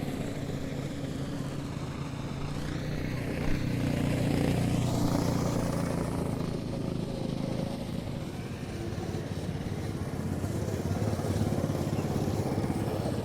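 Snowmobile engine running steadily, growing louder about four seconds in and again near the end. There is one short sharp knock about three and a half seconds in.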